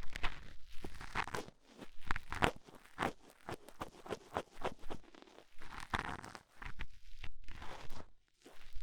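Ear pick scraping and scratching inside a binaural microphone's ear, a run of irregular close crackly strokes, with a short soft rushing sound about six seconds in.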